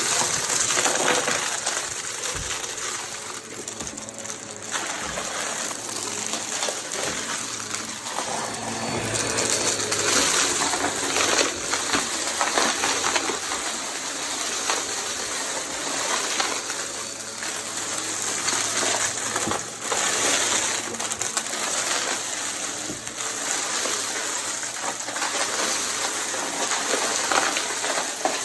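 Vacuum cleaner running as it is pushed quickly back and forth, its hissing airflow swelling and dipping every few seconds.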